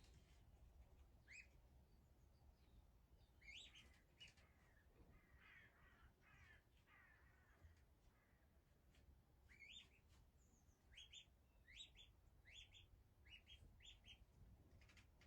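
Faint bird calls: short rising calls, a few spaced out at first, then a quicker run of them in the second half.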